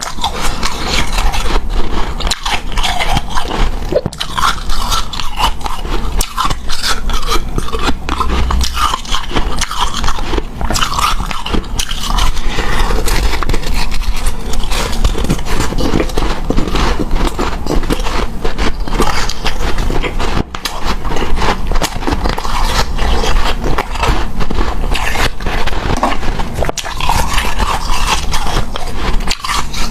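Close-miked biting and chewing of hard powdery, snow-type ice: continuous crunching with soft squeaks.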